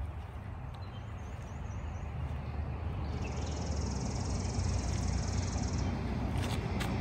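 A bird gives a short wavering high call about a second in, then a high, even, rapid trill lasting nearly three seconds from about three seconds in, over a steady low rumble.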